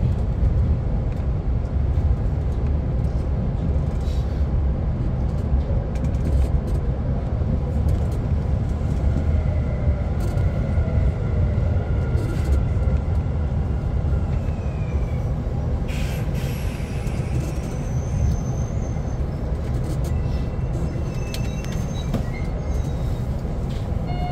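Electric commuter train heard from inside the front car, a steady low rumble as it runs slowly into a station and comes to a stop. Faint gliding whines rise about halfway through, and a short hiss comes about two-thirds of the way in.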